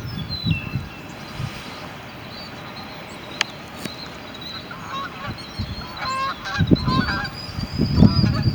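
Short, pitched animal calls, a few faint ones near the start and a run of them from about five seconds in, with low knocking or rustling near the end.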